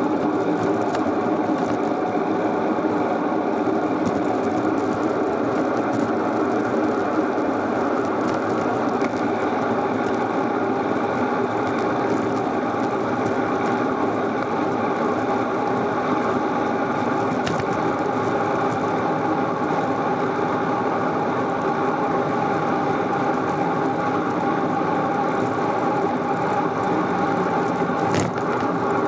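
Steady whirring and rattling of a bicycle in motion, picked up while riding, with a faint click or two near the end.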